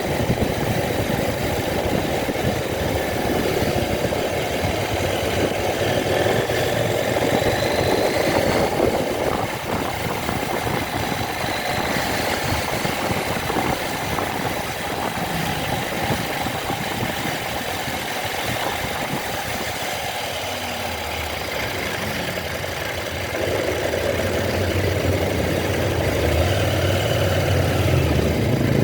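Vehicle engine running on the move, under a steady rushing of road and wind noise; it eases off through the middle and picks up again a few seconds before the end.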